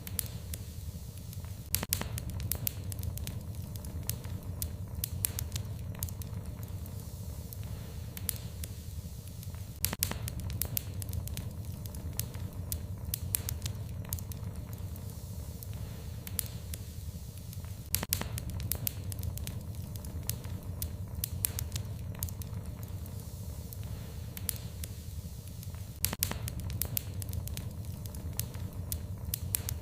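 Wood fire burning in a fireplace: a steady low rumble of flames with frequent sharp crackles and pops. The same pattern of pops recurs about every eight seconds, as in a short looped recording.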